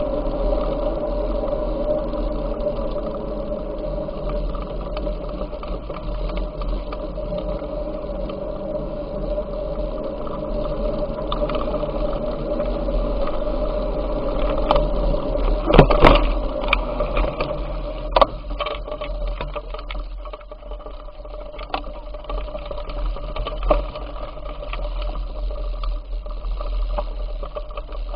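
Bicycle in motion: a steady mechanical whirring from the drivetrain and tyres with a low hum underneath, and a few sharp clicks or knocks a little over halfway through.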